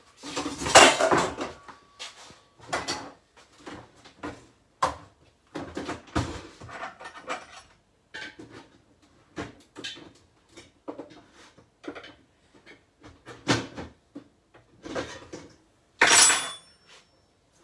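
Kitchen handling sounds: dishes, utensils and containers knocking and clattering in an irregular run of knocks and clicks, with louder clatters about a second in and near the end.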